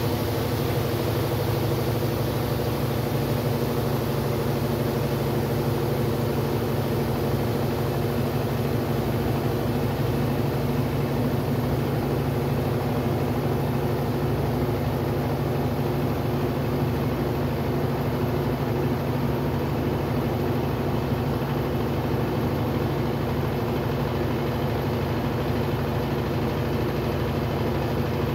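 Brastemp Sexto Sentido 8 kg washing machine running with a steady, even motor hum.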